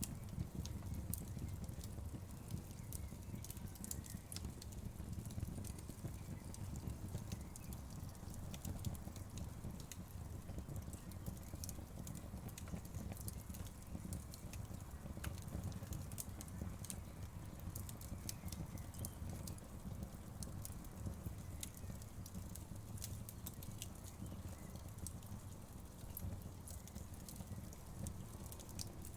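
Wood fire crackling steadily: a low rumble of burning with frequent small, sharp pops and snaps.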